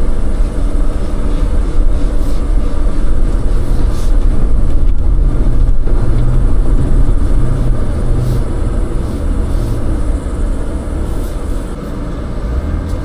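Off-road vehicle driving along a dirt trail: a steady, loud low rumble of engine and tyres that eases a little near the end, with a few light knocks.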